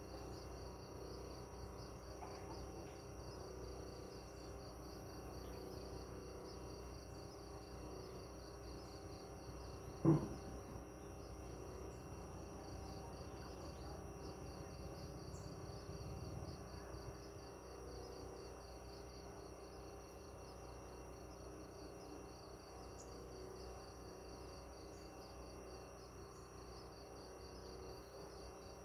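Crickets chirping in a steady, finely pulsing high trill over a low background hum. A single dull thump about ten seconds in.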